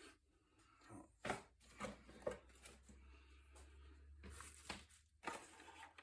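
Faint handling noises: a few light clicks, knocks and rustles as small parts are picked up and moved about on a workbench.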